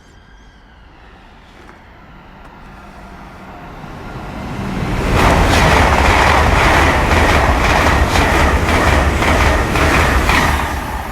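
Two coupled Hitachi IET (Class 800-series) express trains passing through at speed. The rumble builds over the first few seconds and runs loud for about five seconds with a rapid run of wheel clicks, then starts to fade near the end.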